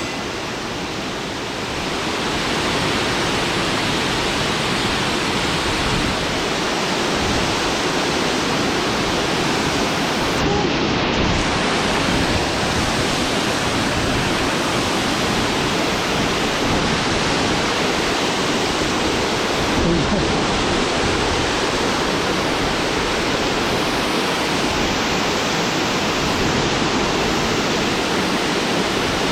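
Mountain stream's water rushing, a steady even noise.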